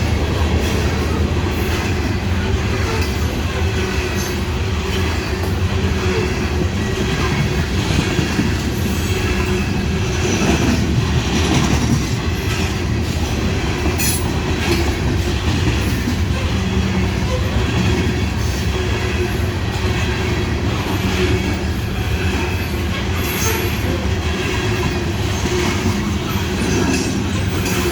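Loaded coal hopper cars of a long freight train rolling past at about 35 mph: a steady rumble of steel wheels on rail, with clicks and some wheel squeal.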